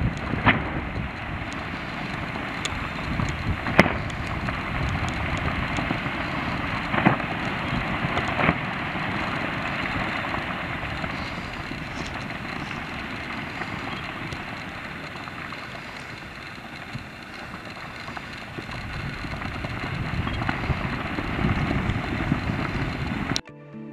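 Explosive ash eruption at Ebeko volcano: a steady rushing roar with a low rumble, broken by a few sharp cracks, dipping a little in the middle and swelling again toward the end.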